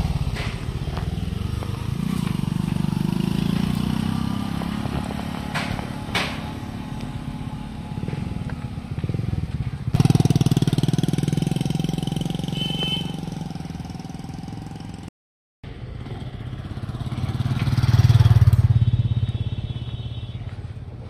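Motorcycle engine running steadily, with a brief break partway through and a louder swell near the end as it draws close.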